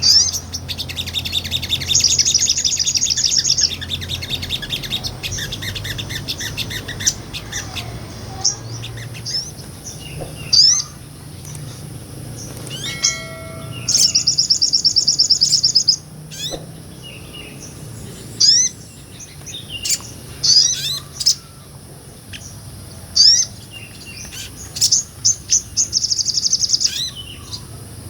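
A sogon (sogok ontong), a small nectar-eating bird, singing lively: sharp rising chirps scattered throughout, broken by fast rattling trills about two seconds in, about fourteen seconds in and near the end.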